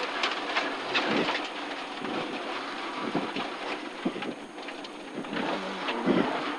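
Gravel and stones rattling against the underside and wheel arches of a Ford Escort RS rally car through a tight gravel hairpin, heard from inside the car, with many sharp irregular clicks over a steady hiss. The engine note is weak beneath the stone noise.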